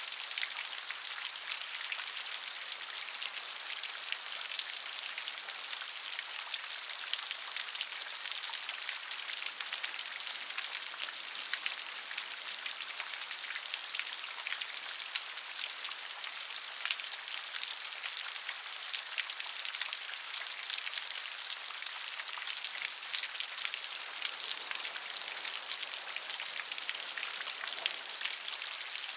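Steady rainfall: a continuous hiss of rain made up of many fine drop ticks on a hard surface.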